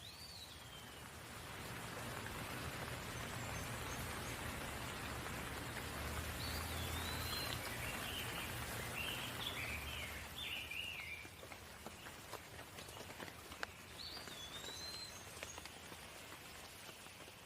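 Steady rain, swelling about two seconds in and easing after about eleven seconds, with a few drops ticking near the end. A bird calls over it: a short falling whistle at the start, a quick run of chirps in the middle and another whistle later. A low hum sits underneath in the middle.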